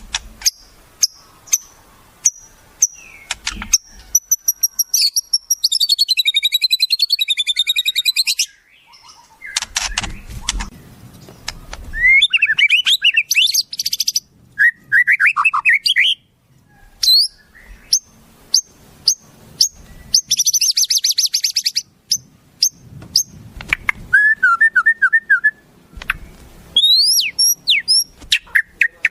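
A string of varied wild bird calls and songs from a bird-tutoring (masteran) recording: sharp chirps, a long wavering trill, quick runs of down-slurred notes and rising whistles, one phrase after another.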